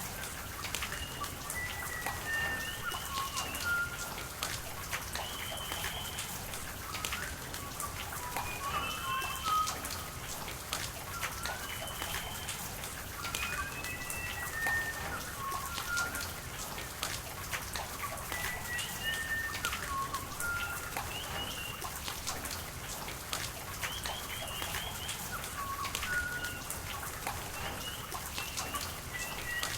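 Steady rain with sharp drips landing close by. Small birds call through it with many short chirps and whistles, several in a row every second or two.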